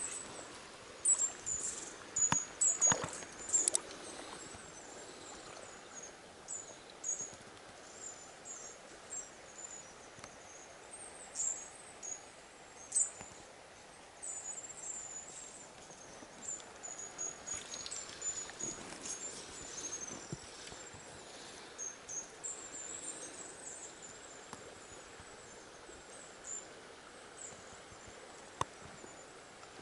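Small birds chirping in short, thin, high-pitched notes, irregular and on and off throughout. A few soft knocks and rustles, loudest in the first few seconds, come from handling close by.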